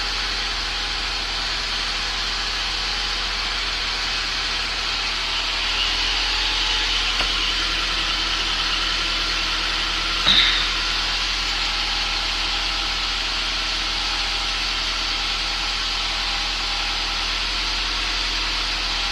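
Toyota 2AZ-FSE 2.4-litre four-cylinder engine idling steadily on its first run after a major overhaul, with one short sharp sound about halfway through.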